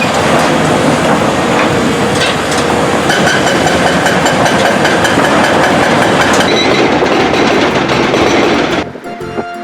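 Heavy construction machinery running loud, a dense mechanical noise with continual rattling and clanking. It cuts off about nine seconds in, giving way to music.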